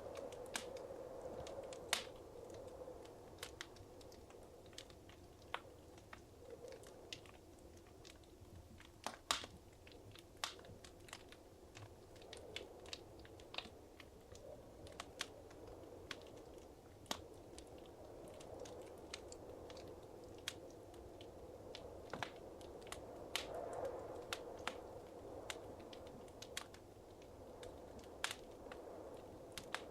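Wood fire crackling and popping in a fireplace: sharp irregular snaps scattered over a soft, steady rushing of the flames.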